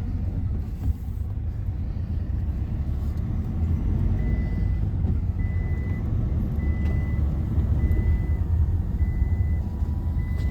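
Vehicle engine running with a low rumble; about four seconds in a reversing alarm starts up, a single high beep repeating evenly a little slower than once a second.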